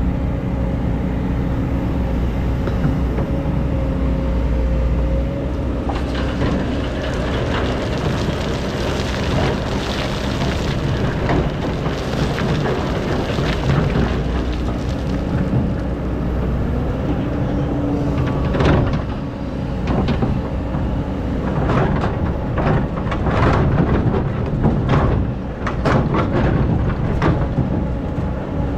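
Excavator's diesel engine running under load, with the bucket scraping and clanking as it digs through a very hard layer of old sand. Sharp scrapes and knocks start about six seconds in and come thickest near the end.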